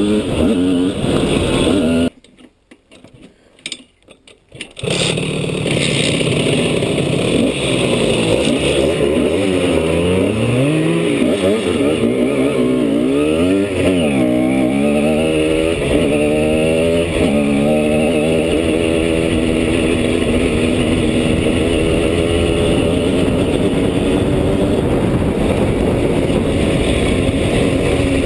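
Simson S51 enduro's two-stroke single-cylinder engine running under way, its pitch repeatedly rising and falling as it revs up and eases off. The sound drops almost to silence for about three seconds, starting about two seconds in.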